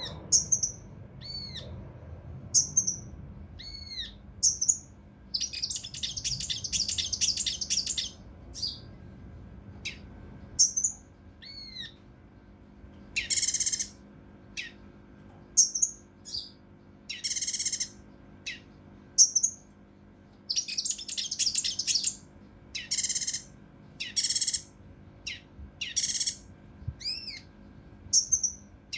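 Kinoi (cucak rante mas) songbird singing in a rapid series of short, arched whistled notes broken by harsh, dense rattling bursts, the rough rapid-fire 'tembakan' phrases.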